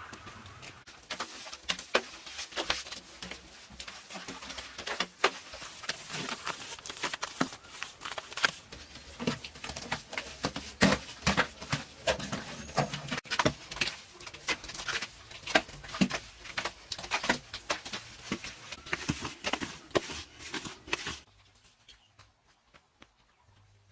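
A rapid, irregular series of sharp clicks and knocks that stops abruptly about 21 seconds in.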